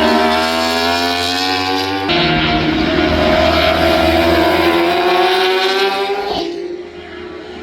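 Racing superbike engines at high revs, their note climbing steadily. The sound changes abruptly about two seconds in, climbs again, then fades away near the end.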